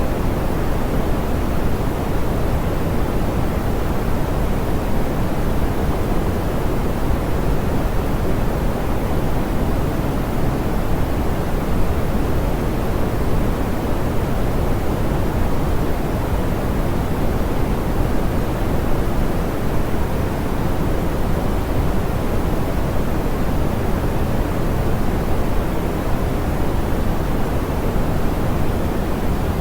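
Steady, soft pink noise: an even rushing hiss weighted toward the low end, with the highs rolled off, unchanging throughout.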